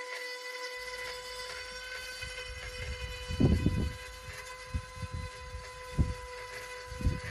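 Power grinder running with a steady high whine, grinding out cracked old repairs on a fibreglass boat, with several irregular low thuds over the middle and end.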